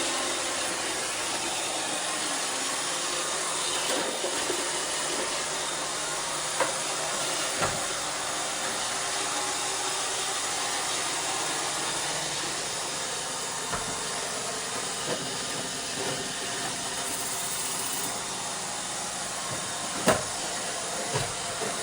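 iRobot Roomba 630 robot vacuum running: a steady whirring hiss from its vacuum motor and brushes, broken by a few brief knocks, the loudest about twenty seconds in.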